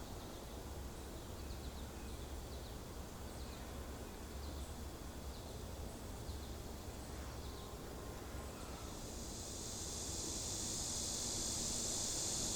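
A steady high insect buzz swells in about three quarters of the way through and holds. Before it there are faint short high chirps over a low rumble.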